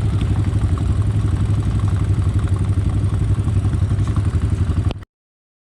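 ATV engine running steadily with a fast, even pulsing, until the sound cuts off suddenly about five seconds in.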